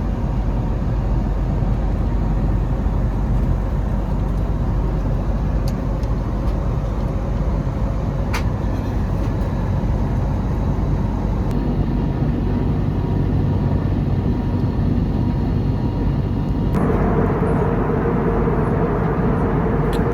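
Steady cabin noise of an Airbus A321neo, the constant rush of engines and airflow. There is a sharp click about eight seconds in, and the noise grows fuller and louder near the end.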